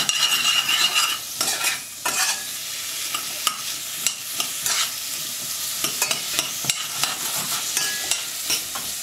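Sliced carrots sizzling in fat in a stainless steel saucepan as they glaze, stirred with a metal spoon that clicks and scrapes against the pan. The stirring is busiest in the first second or so, then the sizzle carries on under occasional spoon clicks.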